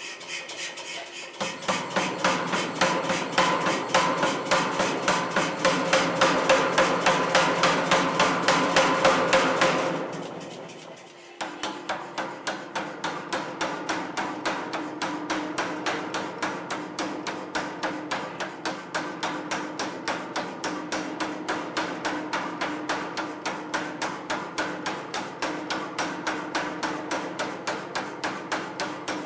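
Hammer striking hot steel on an anvil in a steady, rapid rhythm while forging a cleaver blank, each blow ringing. The hammering pauses briefly about ten seconds in, then resumes at an even pace.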